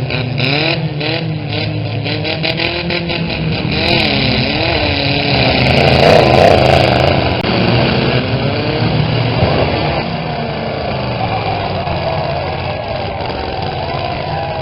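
Several modified small pickup truck engines revving and running hard, their pitch rising and falling. Sharp knocks run through the first few seconds, and a louder burst of knocks comes about six seconds in, typical of the trucks slamming into each other in a demolition derby heat.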